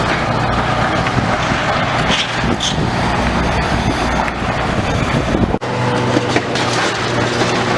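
Heavy demolition machinery working, a dense noisy clatter with scattered knocks; about five and a half seconds in it cuts off abruptly to a steady diesel-like engine hum.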